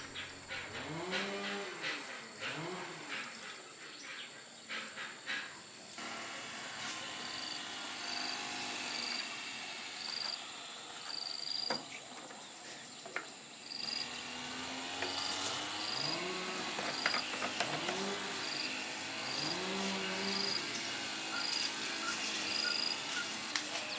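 Cattle mooing in short rising-and-falling calls, in two groups: near the start and again later on. A faint high chirp repeats about once a second over a steady rural background.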